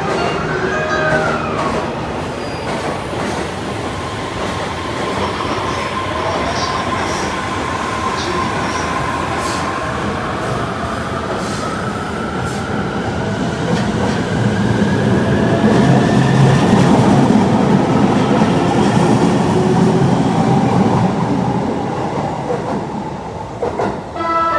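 Electric limited express train running past: a steady rumble of wheels on the rails with a thin motor whine that rises slowly in pitch, growing loudest about two thirds of the way through as the cars pass close.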